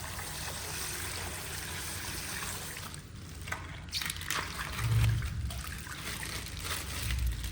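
Coloured water trickling out of a punctured plastic ice-pack bag, then crinkling plastic with a low thump about five seconds in.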